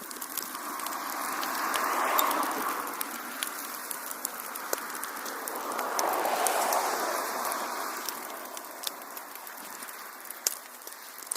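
Wood fire burning in a fireplace: a rushing hiss of flames that swells twice, with scattered crackles and pops of burning wood.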